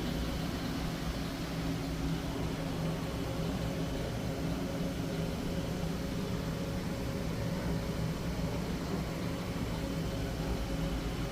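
Woosung GNF-115A-02W topping refrigerator running, its compressor and fan making a steady hum with a few low held tones.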